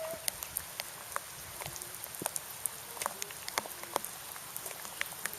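Steady rain falling, an even hiss broken by many irregular sharp ticks of individual drops striking close by.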